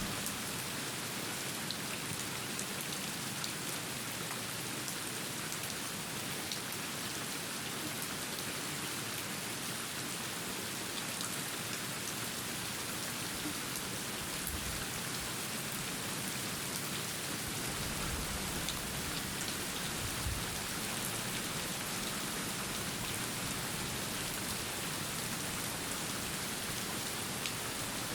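Steady rain falling, a dense even hiss with scattered sharp drop ticks. A few brief low rumbles come about halfway through.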